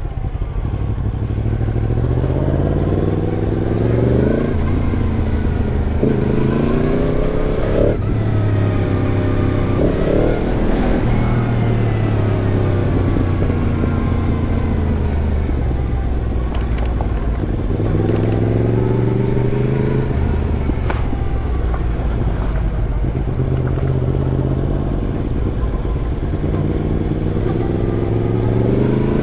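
Yamaha MT-10's crossplane inline-four through an Arrow aftermarket exhaust, accelerating hard with the pitch climbing and dropping back sharply several times as it shifts up through the gears, easing off in the middle and pulling again later. Wind and road noise run underneath.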